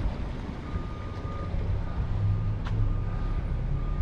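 A vehicle's reversing alarm beeping, about one beep a second, over a steady low engine rumble, with a single sharp click about two thirds of the way through.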